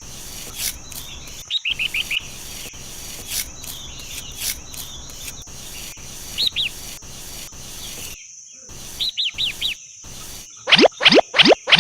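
Small birds chirping in short quick bursts over a steady high insect drone. Near the end, a loud run of rising sweep sound effects starts, about three a second.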